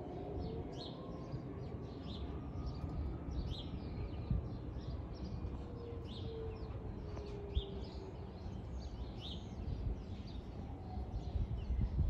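Small birds chirping in the trees: many short, high chirps repeated through the whole stretch, over a steady low background rumble.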